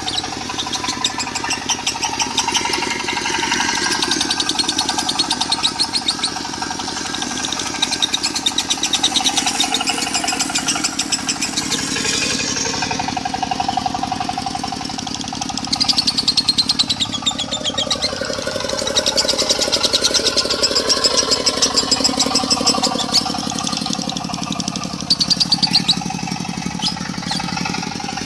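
Lovebirds singing long, rapid chattering trills in the konslet style over a diesel engine running steadily. The trilling swells louder several times.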